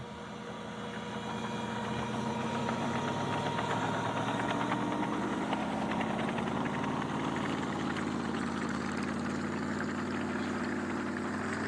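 A vehicle engine running steadily, its pitch climbing slowly over the first several seconds and then holding.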